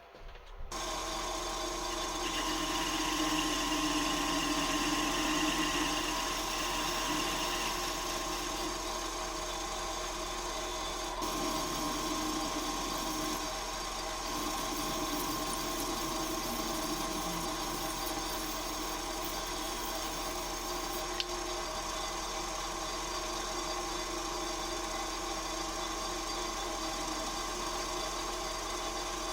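Metal lathe running steadily while turning a small steel part, a hum of several steady tones at an even level.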